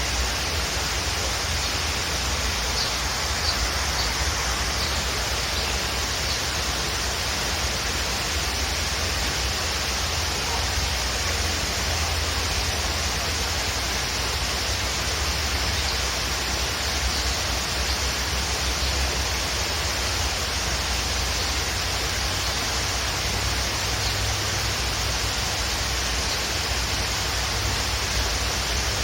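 Waterfall rushing in a steady, even roar of water noise. A few faint high bird chirps sound about three to five seconds in.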